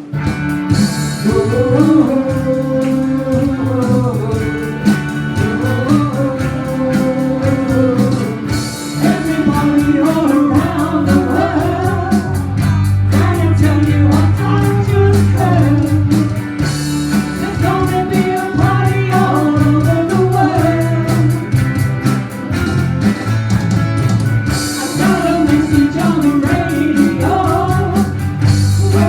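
A band playing a rock song: a singer over guitar and a steady drum beat.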